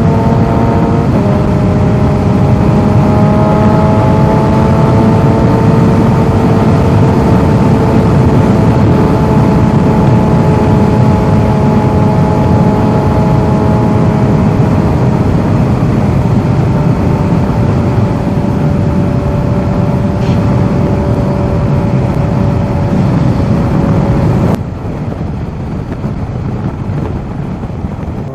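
Kawasaki Z H2's supercharged inline-four running under way with heavy wind rush, its note sinking slowly over about twenty seconds. About 24 seconds in, the wind and engine drop sharply, and near the end the engine revs up again.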